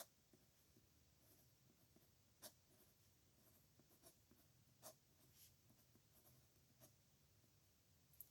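Pen writing on paper, faint and scratchy, with a few sharp ticks: the clearest right at the start, about two and a half seconds in and about five seconds in.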